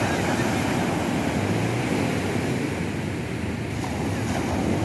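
Steady rush of sea waves and surf with wind buffeting the microphone.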